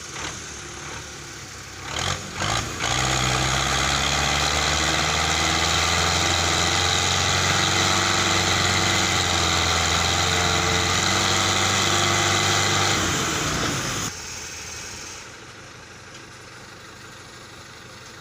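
Diesel tractor engine running. About three seconds in it speeds up to a loud, steady high-rev run for about ten seconds, then drops back to a quieter idle.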